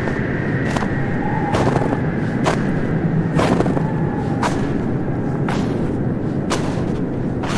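Footsteps crunching in snow, about one step a second, over a steady low rumble.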